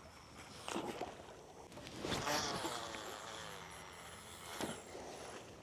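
A cast with a fishing reel: a short click, then the spool whirring as line pays out, the whir falling in pitch as it slows.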